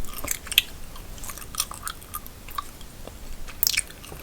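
Gum chewed close to the microphone: irregular wet smacks and clicks, with a brief cluster of louder crackles near the end.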